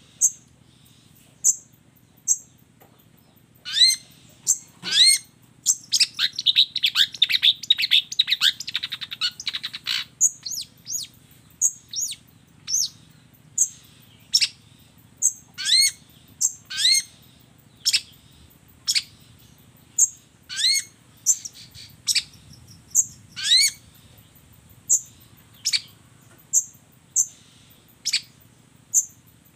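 Long-tailed shrike (cendet) singing a varied song of copied calls: short, high, sharp notes repeated about once a second, louder rising whistled calls at intervals, and a fast chattering run of notes from about 6 to 10 seconds in. A faint steady low hum sits underneath.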